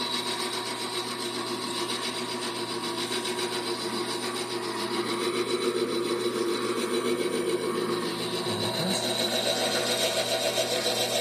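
Vevor 7x14 mini metal lathe running steadily, its motor and gearing giving a constant whirring hum while a cutting bit is fed slowly into a piece of aluminum.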